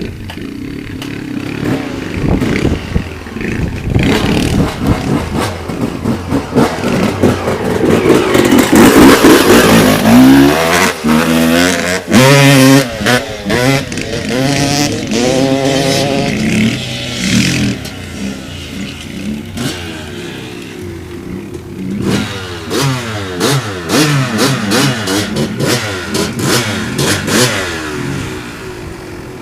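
Dirt bike engine revving up and falling back through the gears as the bike rides across the field, loudest about eight to eleven seconds in, when it passes close, then fading and revving again near the end.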